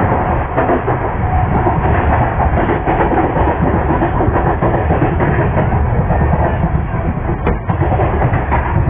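MEMU electric train running along the track: a loud, steady rumble with scattered clicks from the wheels on the rails.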